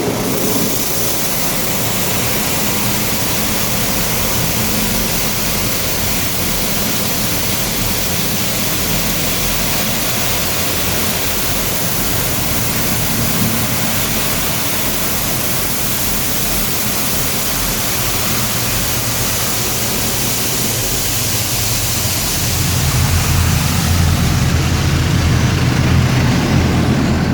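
High-pressure water jets of an automatic car wash spraying against a cargo van's body, heard from inside the van as a steady, loud hiss that echoes in its hollow, uninsulated back. About 22 seconds in the spray turns louder and deeper as the jets come close to the van.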